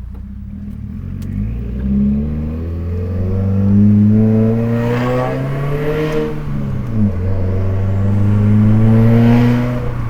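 2015 Subaru WRX's turbocharged flat-four pulling hard through an aftermarket catted J-pipe and straight-through 3-inch catback, heard from inside the cabin. The exhaust note climbs in pitch, drops sharply about seven seconds in as it shifts up, then climbs again and falls at the next shift.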